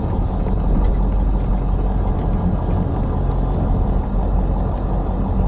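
Truck engine and road rumble heard from inside the cab while driving: a steady low drone.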